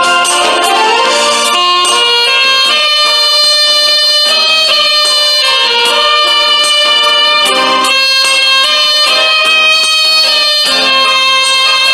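Alto saxophone playing a slow melody of held notes over instrumental accompaniment.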